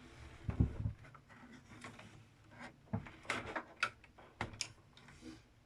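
A few scattered light knocks and clicks of handling, with quiet room tone between them.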